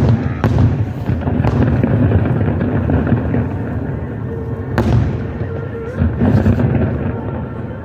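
A fireworks barrage going off in quick succession: sharp cracks over a continuous rumble of booming bursts, with the loudest crack about five seconds in.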